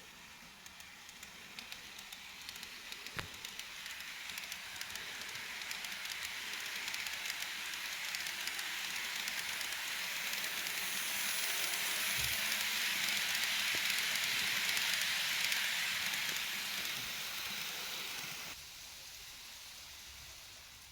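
KATO E233 series model train running along the track past the microphone, with a hissing rolling noise and rapid light clicks over the rail joints. It grows louder over the first half, then falls away sharply near the end.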